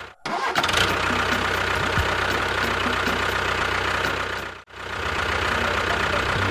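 Engine running steadily with a low, pulsing chug. The sound cuts out abruptly for a moment twice: just after the start and near the end.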